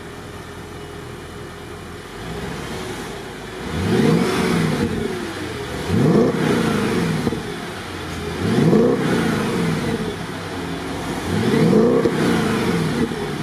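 Audi S5 (B8) 4.2-litre V8 revved four times, pitch rising and falling with each blip, through a valved Armytrix aftermarket exhaust.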